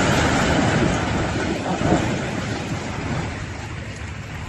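Heavy rumbling, crackling noise of demolition debris coming down, loud at first and slowly dying away.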